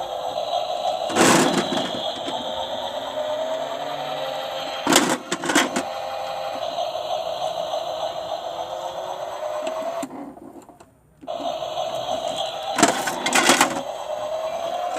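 Small electric motor of a toy washing machine whining as its drum turns, the pitch sliding up and down, with hard objects knocking loudly inside a few times. About ten seconds in the motor winds down and stops for a moment, then starts again.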